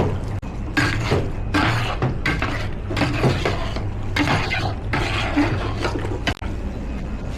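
Kitchen clatter of utensils and pans: irregular knocks and scrapes while food is handled, over a steady low hum.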